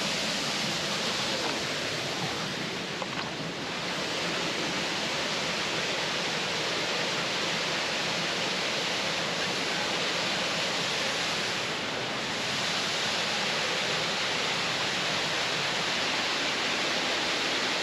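Kilgore Falls, a waterfall, pouring steadily into its pool: an even rushing hiss of falling water that eases off slightly twice.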